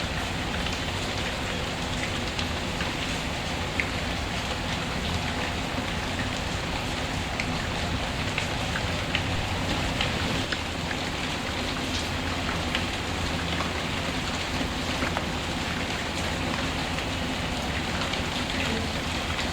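Steady heavy rain with scattered sharp crackles and pops from a wood fire burning in a fireplace.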